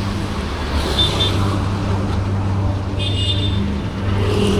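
Honda H'Ness CB350's air-cooled single-cylinder engine running steadily through its exhaust. Short high-pitched tones sound briefly about a second in and again around three seconds.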